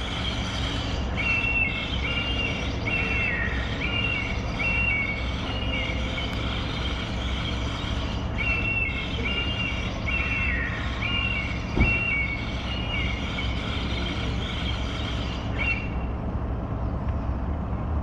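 A bird's repeated high chirping calls: short even notes that drop in pitch at the end, about two a second, in two runs of several seconds. A steady low hum lies underneath, with a single brief knock about two-thirds of the way in.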